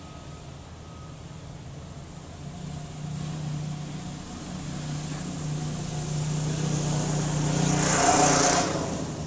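Small 6.5 horsepower single-cylinder engine running on a small vehicle as it approaches and drives past, getting steadily louder. It is loudest about eight seconds in, then falls away quickly as it passes.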